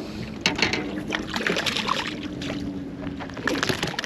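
Knocks, clicks and splashing as a freshly landed spotted seatrout is handled at the boat, with clusters of sharp knocks about half a second in and again near the end, over a steady low hum.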